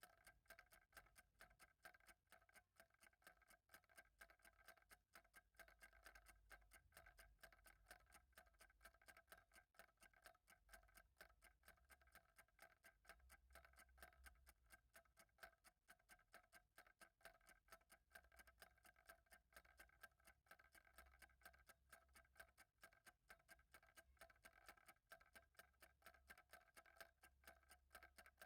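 Faint, steady ticking of a clock, fast and even, over a low hum.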